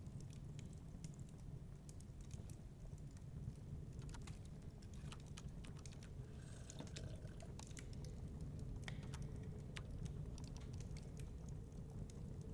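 Wood fire crackling in a fireplace, with irregular sharp pops and snaps over a steady low rumble of wind.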